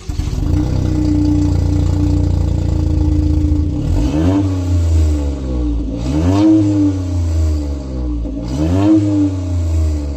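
Toyota GR Yaris's 1.6-litre turbocharged three-cylinder engine through an Ulter-Sport active exhaust, idling steadily for about four seconds and then revved three times, each rev rising and falling.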